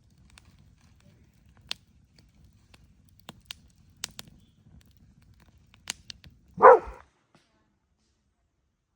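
A few scattered sharp clicks, then a single loud dog bark about two-thirds of the way in.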